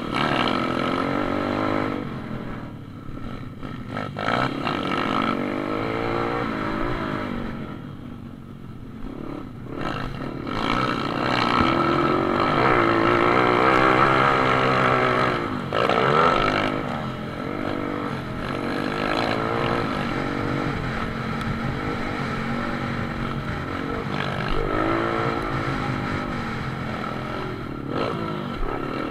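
Pit bikes racing, their small engines revving up and down through the gears, the sound swelling and fading as the bikes come close and move off.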